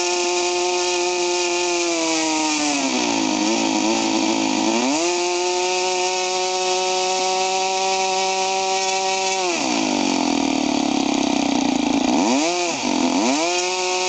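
O.S. Wankel rotary model-aircraft glow engine turning a propeller while being run in. It runs at a high steady pitch, is throttled down to a wavering idle, brought back up, throttled down again, then blipped twice and opened up near the end. Right afterwards the idle is judged to sound not too good.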